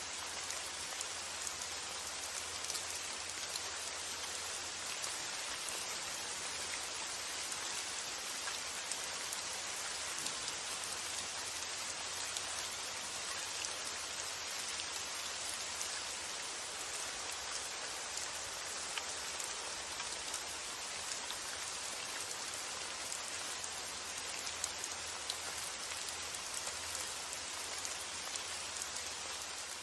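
Steady rain falling: an even hiss with scattered drop ticks, over a faint, steady low rumble.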